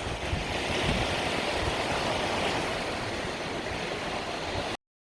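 Waves washing onto a Mediterranean beach, a steady hiss of surf that swells about a second in. The sound cuts off suddenly near the end.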